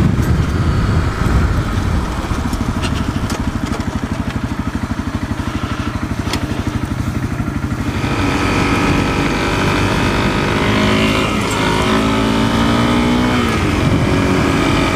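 Single-cylinder dual-sport motorcycle engine running on a dirt road, heard from the rider's seat. It chugs at low revs for the first half, then opens up about halfway through and climbs in pitch before dropping back as the rider shifts, with a few sharp ticks of gravel or rocks.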